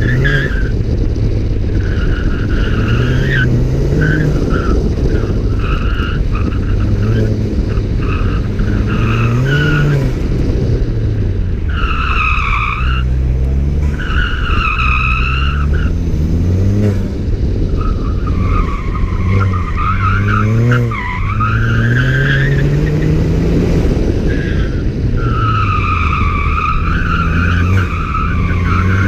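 A 2014 Ford Fiesta ST's turbocharged four-cylinder engine, breathing through an aftermarket cat-back exhaust, revving up and dropping again and again through gear changes on an autocross run. The Falken Azenis tyres squeal repeatedly through the corners, loudest in several long stretches.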